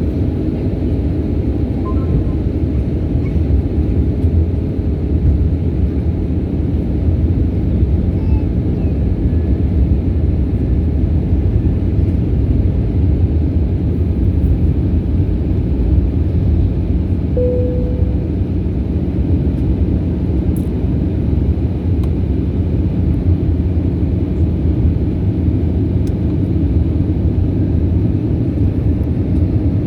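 Airliner noise: a steady, unchanging low rumble of engines and airflow, with a brief faint tone a little past halfway.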